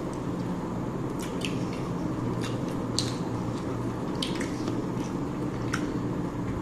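A person eating: scattered short, wet mouth clicks and smacks of chewing, about seven in a few seconds, over a steady low background hum.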